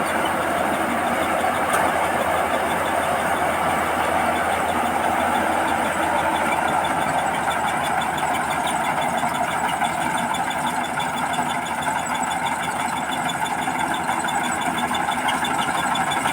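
Combine harvester running steadily while harvesting rice, its engine and threshing machinery making one continuous dense din. A fast, regular ticking comes in above it about halfway through.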